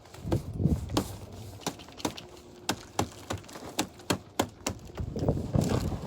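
Footsteps crunching through ice-glazed snow left by freezing rain, with sharp, irregular cracks and clicks of the ice crust breaking, several a second, and a few duller thuds of steps.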